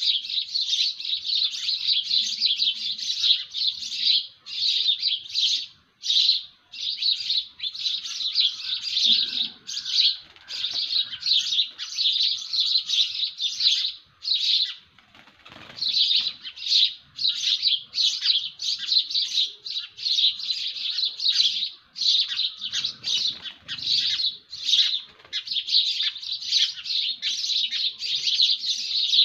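A dense chorus of birds chirping rapidly and almost without pause, with a brief lull about halfway through.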